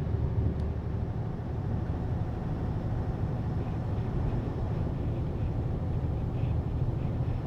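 Steady drone of a semi-truck's engine and road noise heard from inside the cab while driving at a constant speed.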